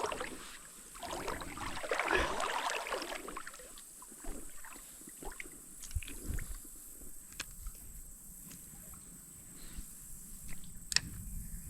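Water swishing against a small boat such as a canoe or kayak for a couple of seconds near the start, then scattered light clicks and knocks.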